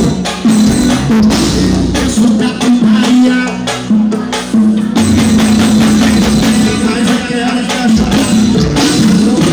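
Live band playing upbeat music, with a drum kit keeping a steady beat over a bass line.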